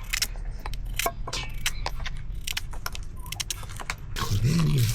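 Rapid, irregular clicks and clinks of small hard objects, with a short rising-and-falling voice sound about four seconds in.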